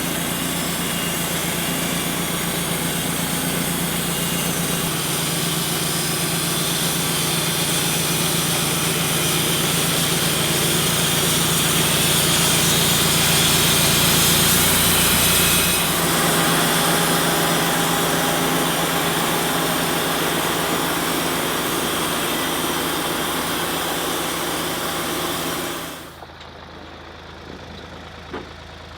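Wood-Mizer LT28 portable band sawmill running: a steady engine note under a broad hiss that grows louder until about halfway, changes character about two-thirds in, then drops away sharply shortly before the end.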